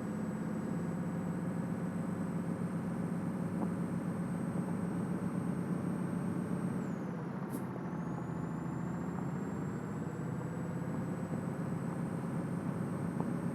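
Scania truck's diesel engine running steadily. A little over halfway through, the revs dip, with a faint click, then climb back up.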